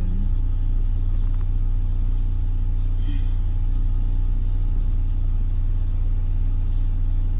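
Vehicle engine idling, heard from inside the cab as a steady low rumble.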